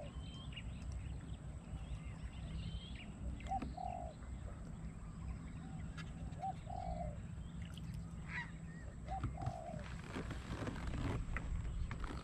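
A bird calling a short two-part call (a quick note, then a longer one), three times about three seconds apart, with fainter, higher chirps from other birds and a steady low rumble underneath.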